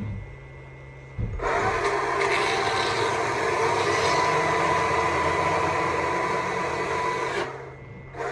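Stihl MSA 200 C battery chainsaw triggered about a second and a half in and running at speed for about six seconds while carving a wood stump, then released near the end and winding down.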